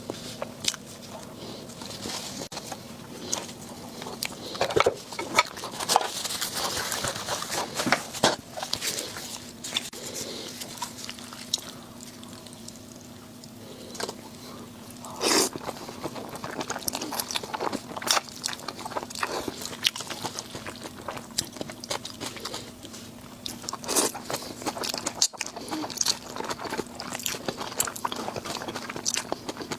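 Close-miked eating: biting and chewing with irregular crunches and small clicks, louder in a few bursts, over a faint steady hum.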